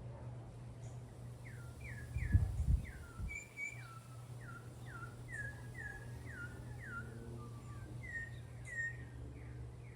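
Venezuelan troupial (trupiaal) singing a run of short whistled notes, each sliding down in pitch, about two a second. A steady low hum lies underneath, and a brief low rumble about two and a half seconds in is the loudest sound.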